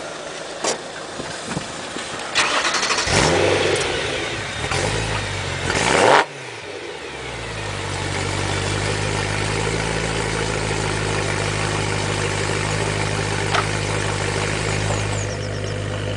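Supercharged BMW M3 E92's 4.0-litre V8 starting up at the exhaust tips about two seconds in, flaring in revs for a few seconds and dropping back sharply, then settling into a steady idle.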